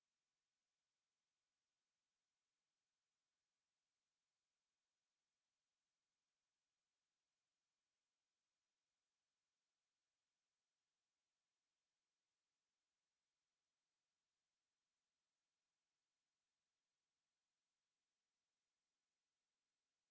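A single steady, high-pitched 10218 Hz sine-wave test tone, held without any change in pitch or level.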